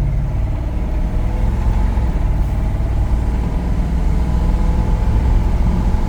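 Inside the cab of a 1983 GMC C2500 pickup, its 350 V8 running steadily while the truck drives down the road, with road noise.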